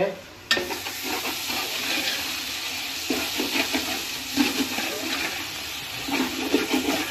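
Tomato masala frying and sizzling in a large metal pot while a ladle stirs and scrapes through it. The sizzle starts about half a second in and runs on steadily, with irregular scraping of the ladle against the pot.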